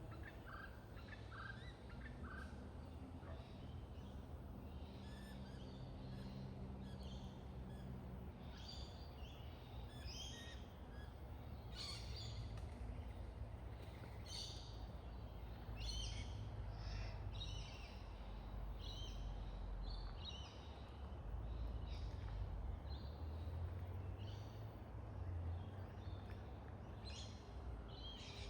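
Birds calling in a tree: a quick series of lower notes in the first few seconds, then many short, high chirps scattered throughout, over a steady low background rumble.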